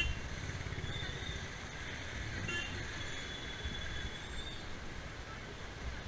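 Traffic in a slow jam: a steady low engine rumble from idling and creeping vehicles around a motorcycle, with a couple of faint, thin horn toots.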